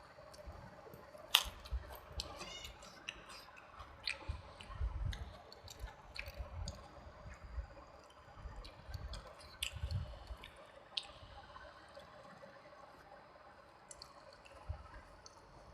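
Close-miked wet chewing and mouth sounds of eating rice with vegetable curry and dal: irregular squelches, lip smacks and clicks, with one sharper click a little over a second in.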